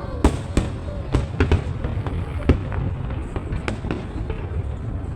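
Fireworks going off: an irregular run of sharp bangs, several in the first second and a half and a strong one about two and a half seconds in, over a continuous low rumble of more distant explosions.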